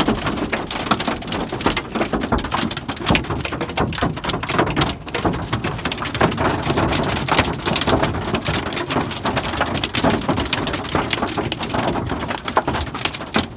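Hailstones pelting a vehicle, heard from inside: a dense, irregular clatter of hard impacts that keeps on without let-up.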